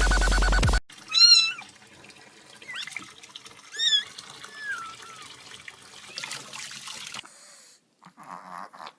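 Dubstep music that cuts off suddenly under a second in, then a cat meowing about four times in short high-pitched calls over a faint steady hiss.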